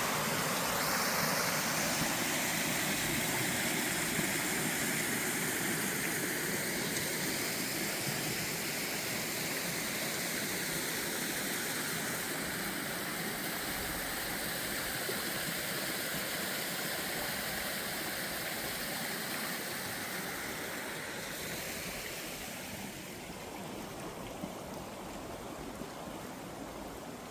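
Steady rush of flowing water, growing fainter over the last few seconds.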